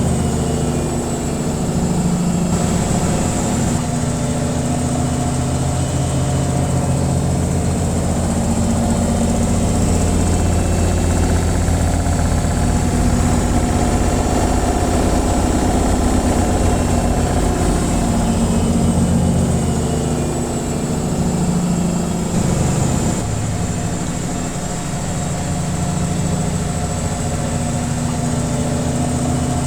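Washing machine running its spin cycle: a steady motor and drum hum with low tones that shift slightly now and then.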